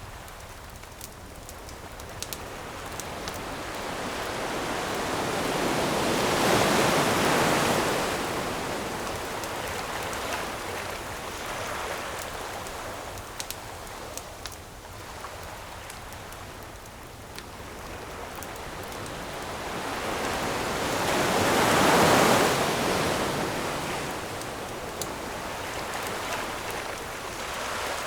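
Ocean waves washing onto a shore, two big swells building and falling away, the louder one about twenty-two seconds in and another about seven seconds in. Small sharp crackles and pops of a campfire come through the whole time.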